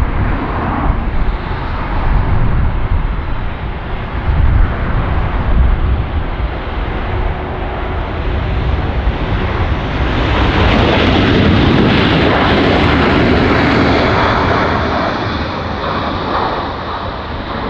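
Jet airliner's engines: a rumble that swells into a loud roar about ten seconds in, peaks, then slowly fades as the aircraft passes.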